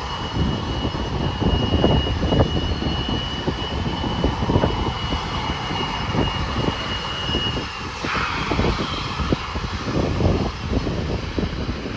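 Jet airliner engines running, with a steady high whine that fades out about two-thirds of the way in, then a rushing hiss that starts suddenly soon after. Gusty wind buffets the microphone throughout.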